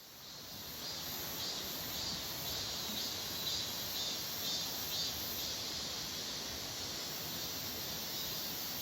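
Insects chirping in an even rhythm about twice a second, over a steady rush of stream water.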